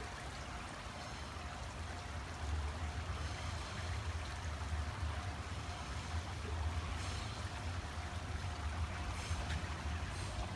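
Low rumble of the approaching Train Suite Shiki-shima (JR East E001 series), growing louder from about two and a half seconds in, over a steady hiss.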